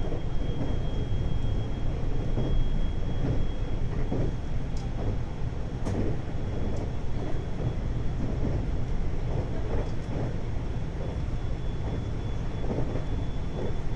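521-series electric multiple unit running at speed, heard from inside the car: a steady rumble of wheels on rail with a thin, steady high whine and a few sharp clicks.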